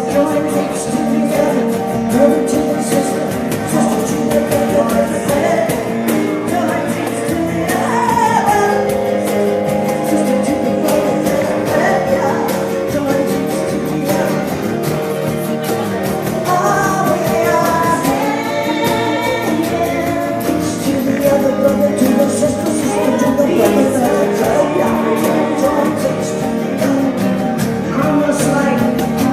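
Live music: singing over guitar accompaniment, with held notes and wavering vocal lines.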